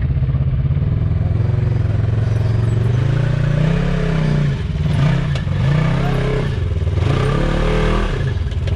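Side-by-side UTV engine running steadily, then revved up and down in several short surges from about three and a half seconds in.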